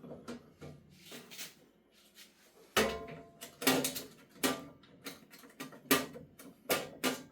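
A string of sharp clicks and knocks, about ten, most of them in the second half, with softer rustling between: hard parts being handled and knocked together while the machine's components are unpacked.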